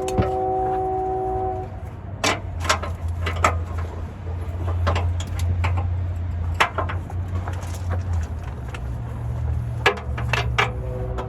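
Scattered metal clinks and knocks from hand tools on the truck's parts, over a steady low hum. A brief whine of several steady tones sounds in the first second and a half and again near the end.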